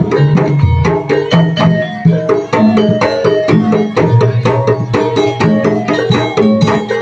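Traditional Javanese jaranan (ebeg) percussion music: hand drums and tuned struck percussion play a busy, unbroken rhythm.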